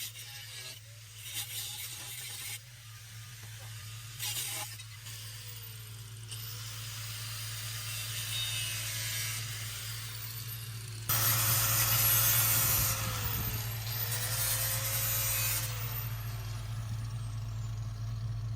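Angle grinder cutting into a Chevy Tahoe's bumper and fender in several bursts, the loudest about two-thirds of the way through. Its motor pitch drops under load and picks back up between cuts, over a steady low hum.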